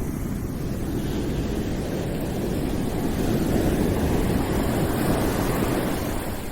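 Steady, low rushing background noise with no distinct events. It swells gently in the middle and eases near the end.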